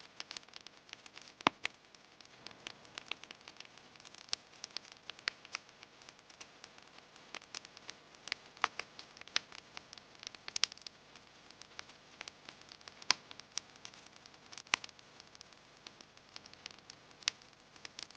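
Wood campfire crackling, with irregular sharp pops and snaps over a faint steady hiss; a few pops, about a second and a half in and near the middle, are much louder than the rest.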